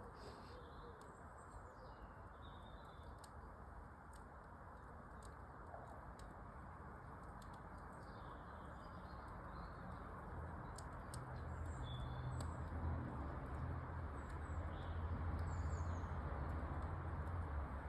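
Wood fire crackling in a fireplace, with scattered sharp pops, while small birds chirp now and then. A low rumble builds in the second half.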